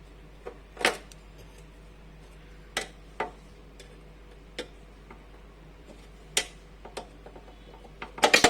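Scattered sharp metallic clicks and taps, several seconds apart, with a quick run of them near the end, as a nut is undone and taken off a gas stove's parts.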